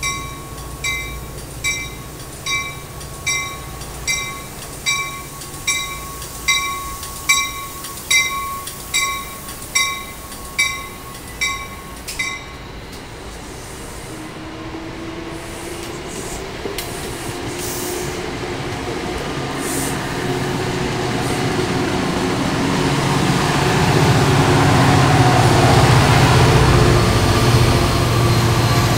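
A departing NJ Transit push-pull train. Its bell rings steadily at just over one strike a second and stops about twelve seconds in. Then the cars roll by with a rising rumble of wheels, and the diesel engine of the PL42AC locomotive pushing at the rear grows loudest near the end as it passes.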